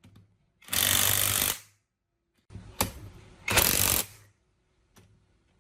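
A power tool run in two short bursts of about a second each, with a sharp click between them.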